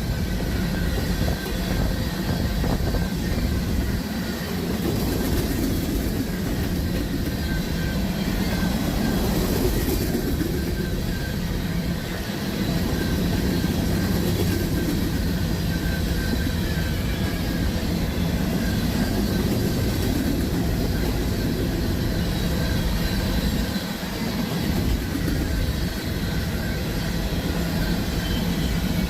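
Freight train of sand cars rolling past at a grade crossing, a steady rumble of steel wheels on rail.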